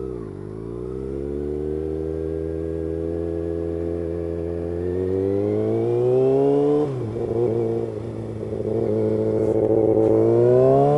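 Kawasaki ZX-6R 636 inline-four through an M4 GP-style aftermarket exhaust, accelerating: the pitch climbs steadily for about seven seconds, drops sharply as it shifts up a gear, holds, then climbs again near the end.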